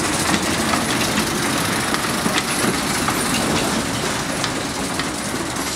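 Open carriages of a narrow-gauge passenger train rolling past at low speed, with the wheels clicking irregularly over the rail joints; the sound eases slightly towards the end.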